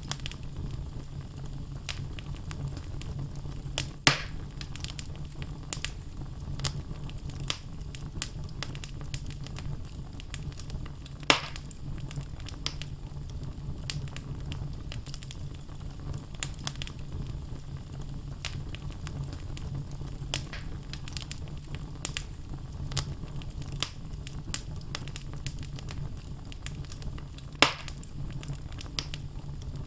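Wood logs burning in a fireplace: a steady low sound of the flames with frequent small crackles and three louder pops, about 4, 11 and 28 seconds in.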